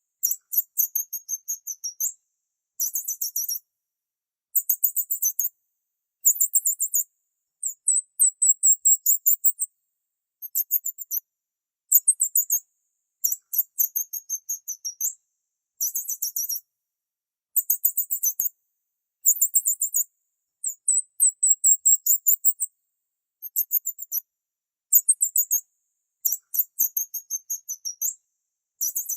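Small bird chirping in very high, rapid trills, in short bursts of about a second each with brief silent gaps between them.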